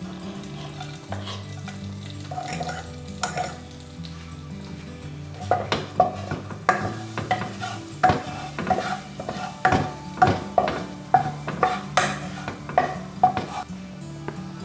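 A utensil stirring and scraping in a frying pan while food sizzles, with a run of quick knocks and scrapes about two a second starting about five seconds in. Soft background music plays throughout.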